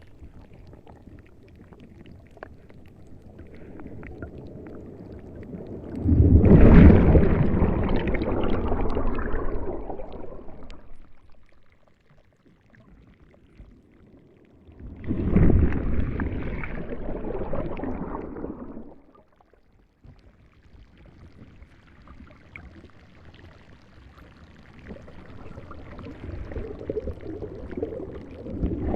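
Rushing water in surges: a noisy wash that swells suddenly and then fades over several seconds, loudest about six and fifteen seconds in, with another swell building near the end.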